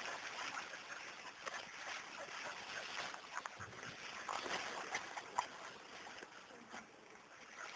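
Faint rustling and crackling through leaf litter and brush, with scattered small snaps, as turtle-sniffing dogs search the undergrowth.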